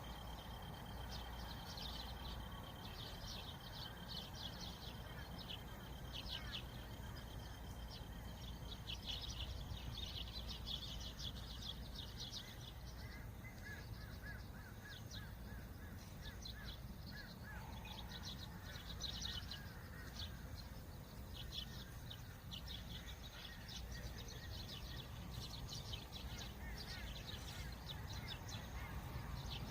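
Many small birds chirping and twittering in quick, overlapping calls, over a steady low rumble of wind. A thin, steady high tone runs beneath the birds for the first half and fades out.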